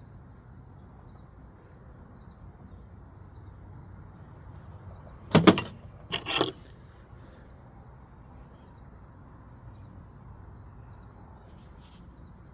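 Two short, loud metallic clanks about a second apart, loose steel hand tools knocking together as they are handled, over a faint steady trill of crickets.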